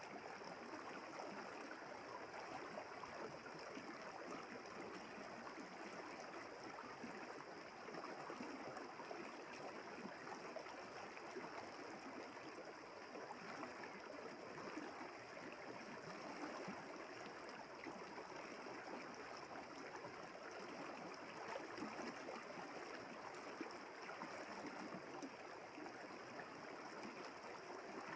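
River water flowing and rippling over stones, a steady, even rush with a faint high hum above it.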